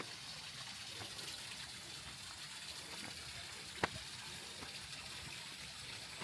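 Steady rush of running water, like a stream or channel flowing. A single sharp click or knock sounds just under four seconds in.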